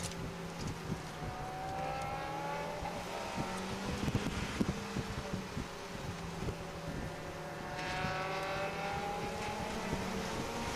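Mitsubishi Lancer's engine heard from inside the cabin while lapping a race circuit, its pitch climbing twice as the car accelerates, first about two seconds in and again through the second half, over a bed of road and wind noise.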